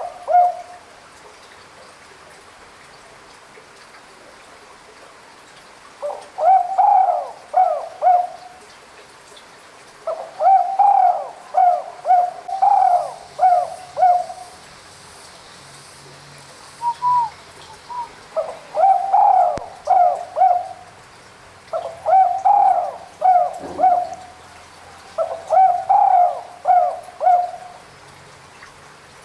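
Spotted dove (tekukur) cooing: about six phrases of several low, rounded coo notes each, repeated with pauses of a few seconds.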